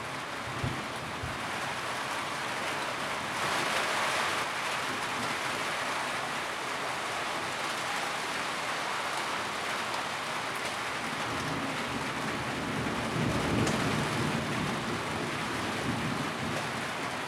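Steady rain drumming on a tin roof, an even hiss that surges louder for a moment a few seconds in. A low rumble swells under it about three-quarters of the way through.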